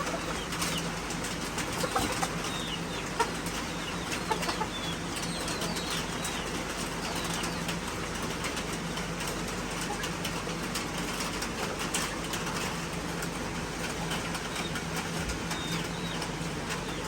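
Chickens flapping their wings and giving short calls as they are let out of a box into a crowded room, with scattered scratches and clicks over a steady low hum.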